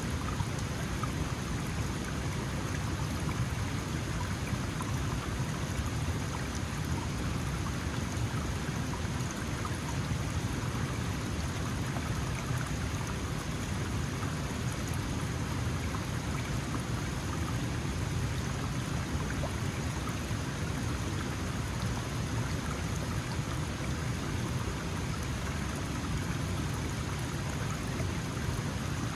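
Small mountain stream flowing steadily over stones: a constant rushing and splashing of water with no pauses or changes.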